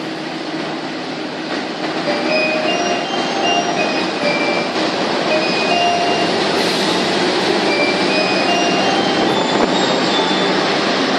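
Passenger train pulled by a CC206 diesel-electric locomotive arriving and rolling past close by: a steady engine and wheel rumble that grows louder over the first few seconds as the locomotive nears, with many short squeals at scattered pitches from braking metal as it slows for the stop.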